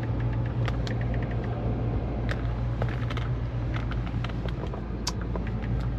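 A vehicle engine running steadily with a low hum, with scattered light clicks and ticks over it.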